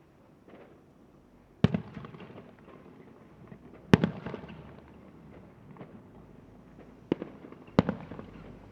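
Fireworks exploding: four sharp bangs, each followed by a crackling, echoing tail. The first comes a little under two seconds in, the next about two seconds later, and two more come in quick succession near the end.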